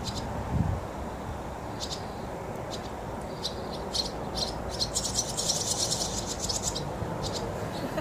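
Fledgling birds calling while they wait to be fed: short, high chirps here and there, then a rapid run of twittering from about five to seven seconds in, over a steady low background rumble.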